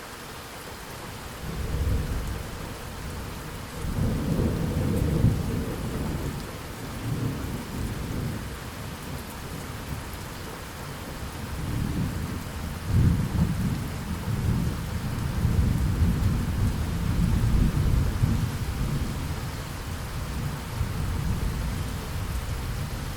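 Thunderstorm: steady rain hissing, with long rolls of deep rumbling thunder that begin about a second and a half in and swell and fade several times.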